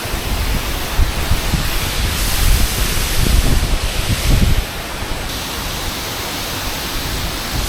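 Close-up rush of a large waterfall, a steady loud hiss of falling water. For the first four and a half seconds or so, low rumbling gusts buffet the microphone, then they ease off.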